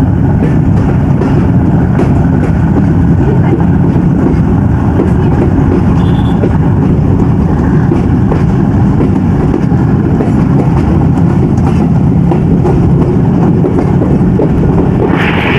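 Passenger train running along the track: a steady, loud low rumble of wheels on rails. A hissier sound comes up near the end.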